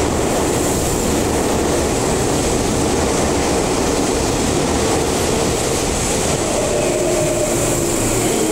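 Sotetsu 21000 series electric train standing at an underground platform, with a steady loud rushing hum from its onboard equipment. Faint steady tones join in about six and a half seconds in.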